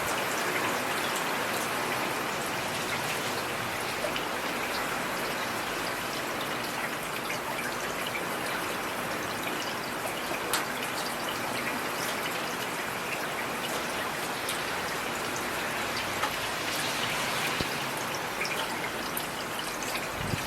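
Heavy rain falling steadily, a dense hiss with scattered sharper drops ticking on a surface.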